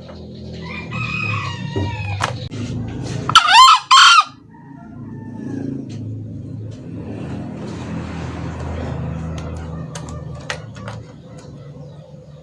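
Green junglefowl cock crowing: one short, shrill two-part crow about three and a half seconds in, the loudest sound, with fainter calls before it over a steady low hum.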